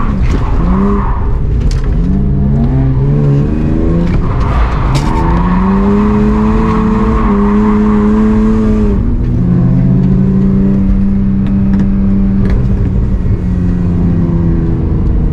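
A drift car's engine revving hard, its pitch climbing and dropping several times and held high for a few seconds at a time, with a hiss of sliding tyres that cuts off about nine seconds in.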